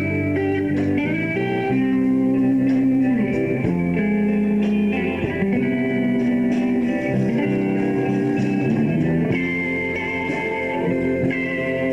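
Live rock band playing an instrumental passage with no singing: electric guitar lead holding notes and bending some of them, over bass guitar and drums.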